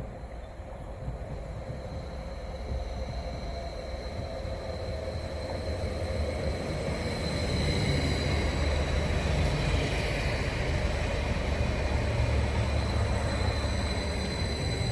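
Greater Anglia passenger train running into the station: a low rumble that grows louder over the first half and then holds, with a steady high whine over it.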